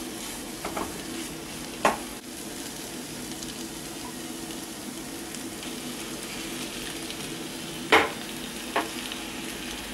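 Onion masala sizzling in a frying pan while a spatula stirs it, with a few sharp knocks of the spatula against the pan, the loudest one near the end.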